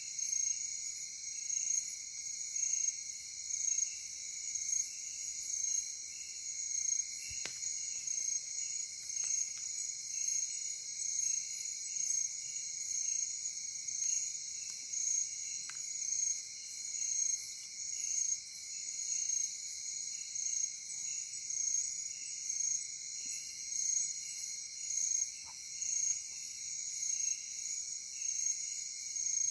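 Night-time forest insect chorus: several insects calling steadily in high-pitched bands, each pulsing in an even rhythm.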